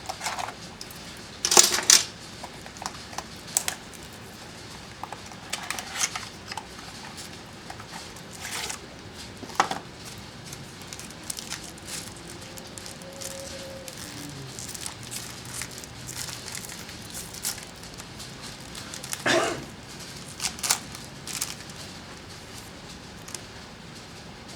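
Plastic and paper packaging of a trading-card box being handled and torn open: scattered crinkling and tearing rustles, the loudest about two seconds in, around six and ten seconds in, and again near twenty seconds in.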